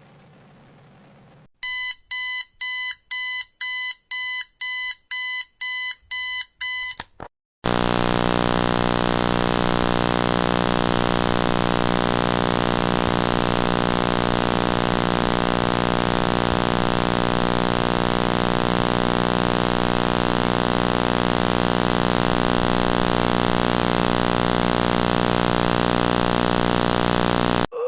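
An electronic alarm beeping about twice a second for some five seconds. After a short gap comes a loud, steady electronic buzz that holds for about twenty seconds, then cuts off suddenly.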